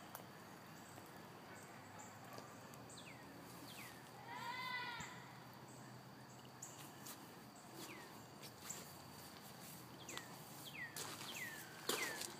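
Faint outdoor background with a few short downward-sliding animal calls, bird-like chirps, and one longer call about four seconds in that rises and falls over about a second. A few soft clicks of footsteps come near the end.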